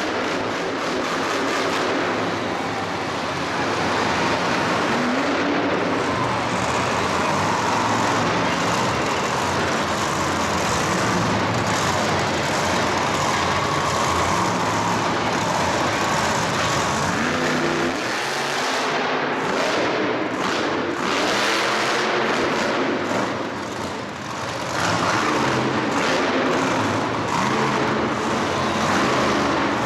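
Loud vehicle engines running and revving, their pitch rising and falling, with a brief drop in level about 24 seconds in.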